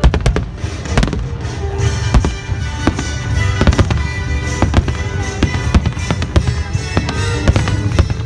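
Aerial firework shells bursting in rapid succession, a dense run of bangs and crackles opening with the loudest bang, with music playing along.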